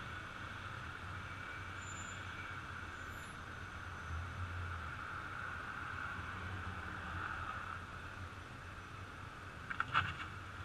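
Heavy trucks' diesel engines running steadily, with a constant high hum over the low rumble. A quick cluster of sharp clicks or knocks comes near the end.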